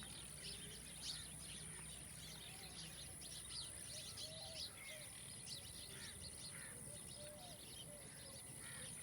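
Many birds chirping and calling over one another in short, quick notes, with some lower arched calls among them, over a steady high-pitched tone.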